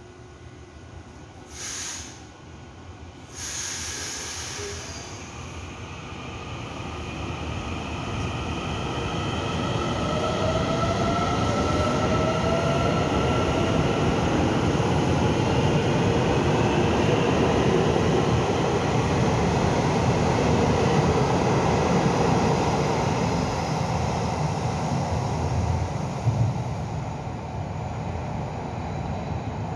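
Taiwan Railway electric commuter train running past an underground platform. Two short hisses of air come near the start, then motor whine and wheel rumble build up, peak around the middle and fade as the train goes off into the tunnel. The echoing station makes the sound boom.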